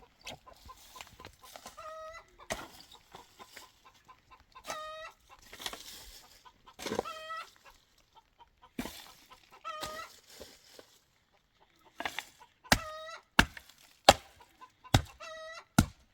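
Chickens clucking, with a pitched call repeated every two or three seconds. From about three-quarters of the way in come five sharp knocks, roughly one a second, louder than the calls.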